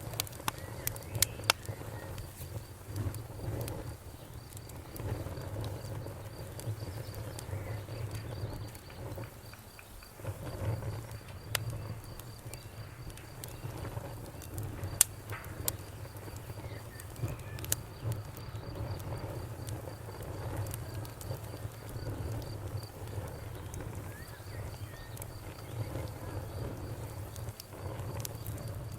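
Wood bonfire crackling, with scattered sharp pops over a low steady rumble of the flames, the loudest pop about halfway through. A cricket chirps throughout in a fast, even high-pitched pulse, pausing briefly twice.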